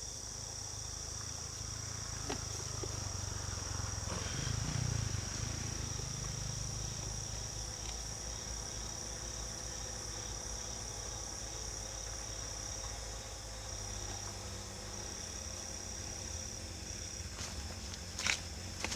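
An insect trilling steadily on one high pitch, breaking off briefly a few times in the later part, over a low rumble. A sharp click near the end.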